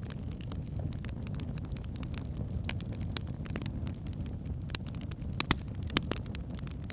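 Log fire burning in a fireplace: a steady low rumble of flames with irregular crackles and pops, two sharper pops a little after the middle.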